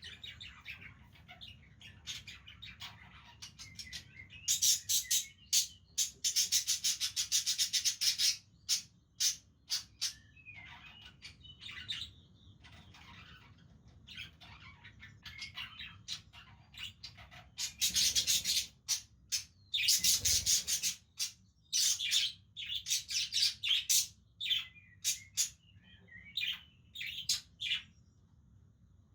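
Several budgerigars chirping and chattering in quick, high-pitched bursts, with two longer loud stretches of dense, continuous chatter, one about five seconds in and one near eighteen seconds.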